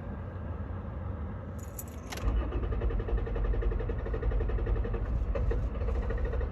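Key rattling in the ignition, then about two seconds in the starter cranks the 2016 Toyota Tacoma's 3.5-litre V6 with a fast, even pulsing, and the engine does not catch. It won't restart after stalling once fully warmed up.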